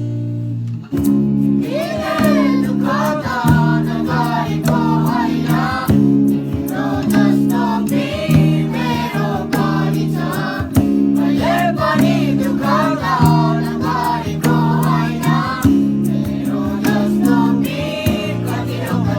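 Boys singing a song together, starting about a second and a half in, over strummed acoustic guitar chords.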